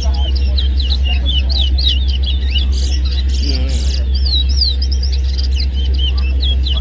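Caged twa-twa seed finches singing in a whistling contest: rapid strings of short, high whistled chirps and quick pitch slides, repeated without a break. A steady low hum runs underneath.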